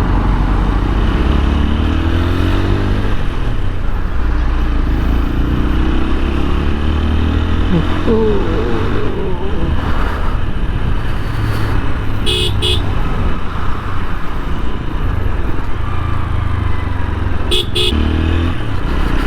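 TVS Apache RTR 160 4V's single-cylinder engine running in city traffic, its pitch rising and falling with the throttle; the rider attributes a noise from the engine to the tappets. A vehicle horn gives two quick toots about 12 s in and two more about 18 s in.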